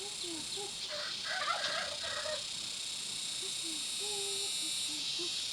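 Chickens clucking and calling in short bursts, busiest from about one to two and a half seconds in, over a steady high drone of insects.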